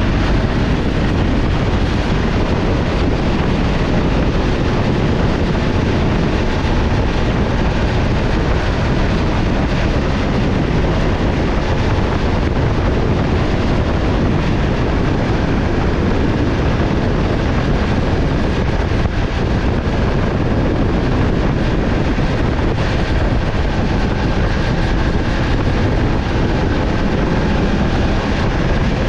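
Motorcycle riding at speed: steady rush of wind and road noise with the engine running underneath, holding level throughout.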